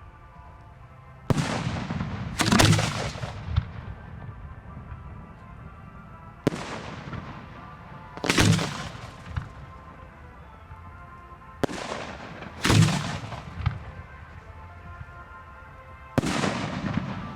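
Fireworks display shells going off in pairs of bangs, about every five seconds. Each pair is a sharp report followed about a second later by a louder boom.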